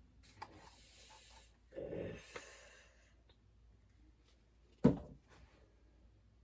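Soft rubbing and swishing of paint being worked onto a canvas, with one short sharp knock near the end.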